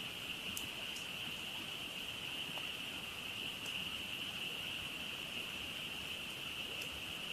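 A dense chorus of frogs calling without a break, forming a steady high-pitched trill, with a few faint crackles from a campfire.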